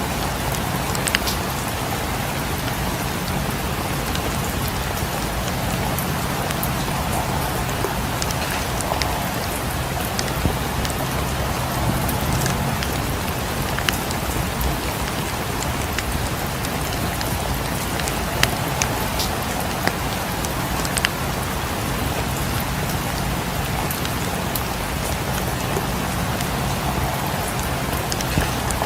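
Steady rain falling, an even hiss with scattered sharp ticks of drops scattered throughout.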